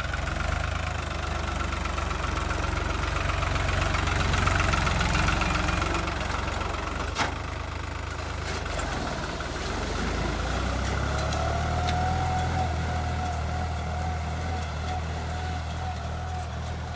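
New Holland 3600 tractor's diesel engine running steadily at low speed. Its note sags a little past the middle and then picks up again, after which a steady whine rides over it, with a sharp click about seven seconds in.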